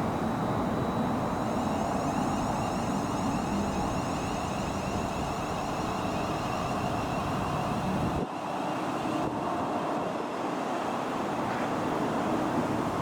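Chiltern Railways Class 168 diesel multiple units passing, a steady rumble with a faint wavering high whine. The deep rumble drops off suddenly about eight seconds in.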